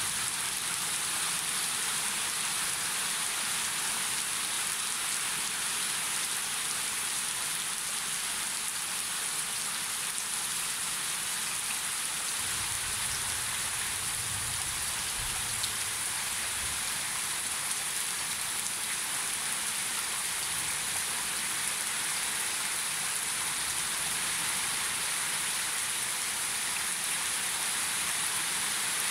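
Steady rain splashing onto the water in an open concrete tank, with a stream of water pouring into the tank from a pipe.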